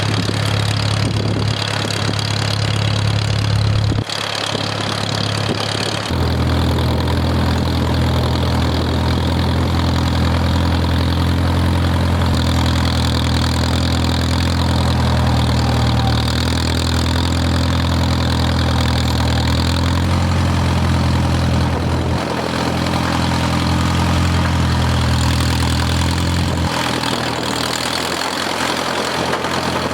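Farmall M tractor's four-cylinder engine running steadily. Its note shifts a few times: around four and six seconds in, and again near the end.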